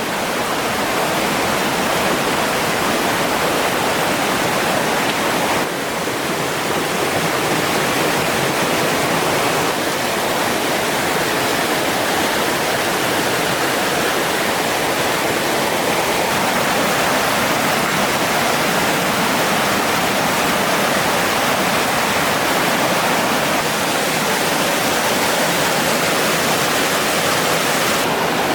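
Steady rush of running water, as from a stream or small waterfall, with no breaks.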